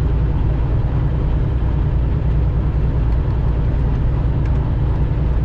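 Steady low drone of a semi truck's diesel engine and road noise heard inside the cab while the truck pulls up a hill.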